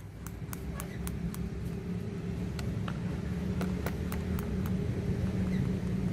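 Steady low mechanical hum, like a fan or air conditioner, with a dozen or so light, irregular clicks or taps scattered through it.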